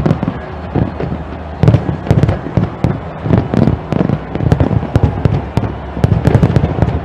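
A fireworks display going off: a continuous barrage of deep booming bursts mixed with sharp cracks and crackling, several bangs a second.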